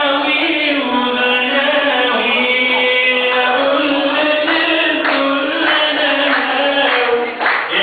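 A man singing an Egyptian Arabic song in long held, sliding notes over instrumental accompaniment.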